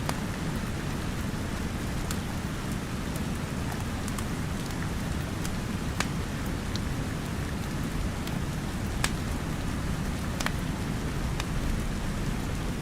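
Steady rain falling, with a low rushing hiss, and sharp crackles and pops from a wood fire scattered through it, a few of them louder.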